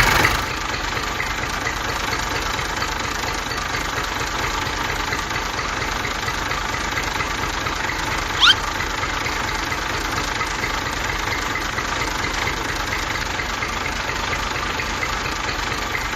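Steady, rapid engine-like running sound from a mini tractor model, at an even level with no revving. A brief rising squeak about eight and a half seconds in.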